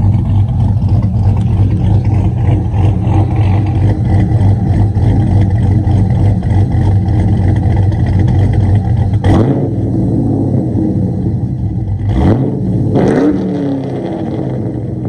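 Cammed Chevrolet Silverado 5.3 V8 idling with a heavy low rumble through Black Widow mufflers on a 3-inch exhaust. About nine seconds in, the throttle is blipped three times in quick succession, the pitch sweeping up and falling back each time, and the engine then settles back to a quieter idle.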